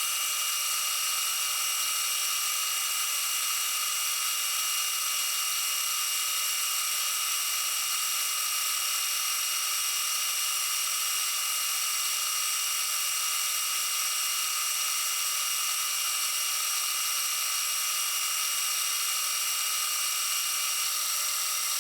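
Milling machine running with its milling cutter cutting a keyway into a metal part: a steady, high-pitched whine of several tones that cuts off suddenly at the very end.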